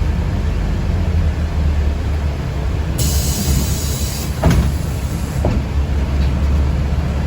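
Steady low rumble inside a moving city bus. About three seconds in, a sharp hiss starts and lasts about two seconds, with a couple of brief knocks.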